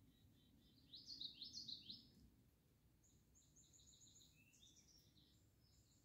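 Songbirds singing, faint: a phrase of quick down-slurred high notes about a second in, then a softer rapid trill of high notes from about three seconds.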